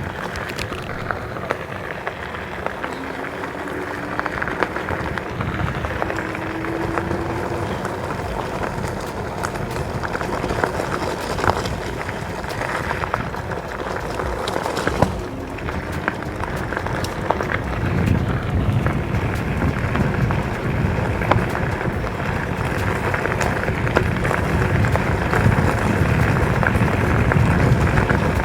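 Electric bike riding on gravel: wide tyres crackling over loose stones, with wind rushing on the microphone that grows louder and deeper in the second half.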